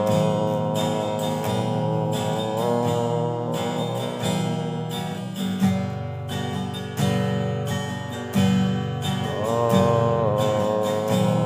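Acoustic guitar strummed, a steady run of chords between sung lines.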